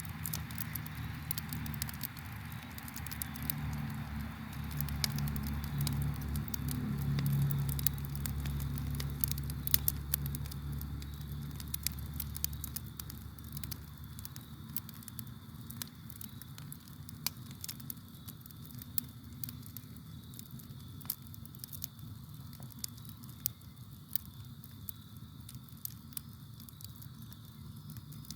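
Campfire crackling, with frequent sharp pops and snaps from the burning wood. A low rumble underneath fades out about twelve seconds in.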